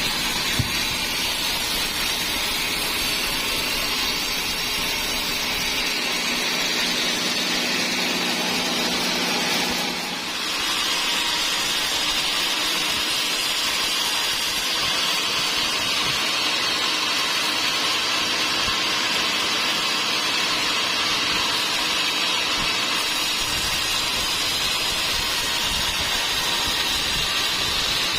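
Sawmill saw running steadily as it cuts through dry teak wood. About ten seconds in, the low hum under the cutting noise drops out after a brief dip in level.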